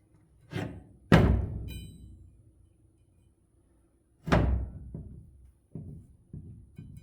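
Hard objects knocked and set down during hands-on work: a knock about half a second in, a loud thud about a second in followed by a short ringing, another loud thud about four seconds in, then a run of lighter knocks.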